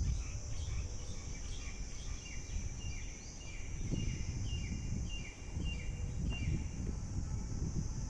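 A bird repeats short falling chirps, about two or three a second, and stops about six and a half seconds in, over a steady high insect drone. Wind rumbles on the microphone throughout.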